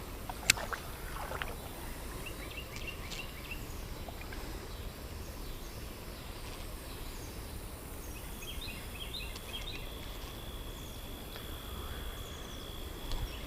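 Outdoor creekside ambience: a steady low background rumble, with small birds giving clusters of short high chirps twice, and a steady high insect drone starting about two-thirds of the way in. A single sharp click sounds just after the start.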